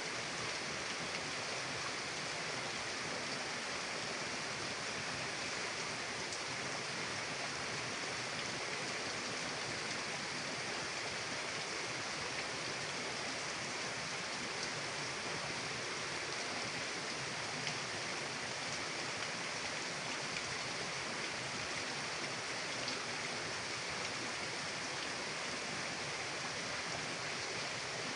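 Steady, unbroken rush of a flowing mountain river.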